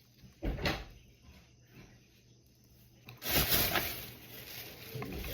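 Limes being squeezed by hand: a short knock about half a second in, then from about three seconds in a louder, rough noise of the fruit being squeezed.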